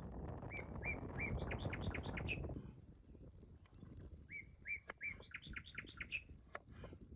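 A songbird sings two quick runs of about a dozen high, chirping notes each, with a pause between them. A rushing noise underneath stops after the first run, leaving scattered faint clicks.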